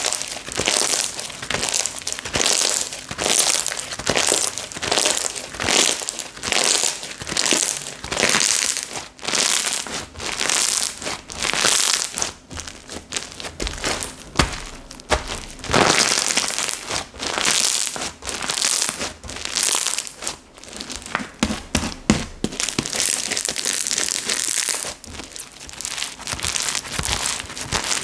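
Slime being squeezed, pressed and stretched by hand, giving a continuous run of crackly, crinkling squishes that come in pulses about once or twice a second.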